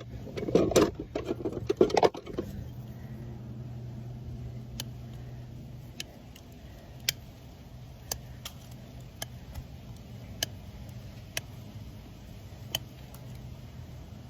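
Hoof trimming: a burst of scraping and knocking in the first couple of seconds, then sharp single clicks about once a second over a low steady hum.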